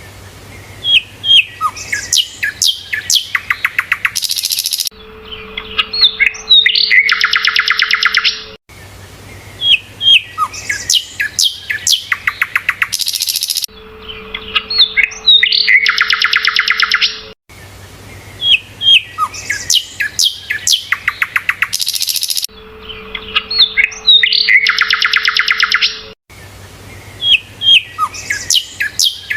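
Sikatan londo (a flycatcher) singing, the same phrase repeating about every nine seconds: a run of sharp chirps and whistles, then a fast rattling trill. A low steady hum sits under part of each repeat.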